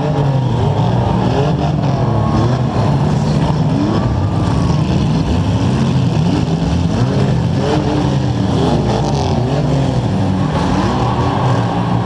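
Demolition-derby compact car engines revving up and down over and over, the pitch rising and falling every second or so as the cars manoeuvre. The nearest engine is heard close up from the car's hood.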